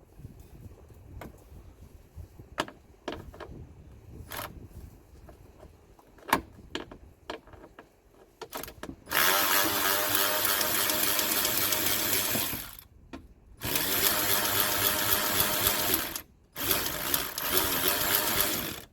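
Scattered light clicks and taps of tools, then a power tool fitted with an 8 mm socket runs three times, a few seconds each with short breaks, backing out the fasteners of the car's underbody panel.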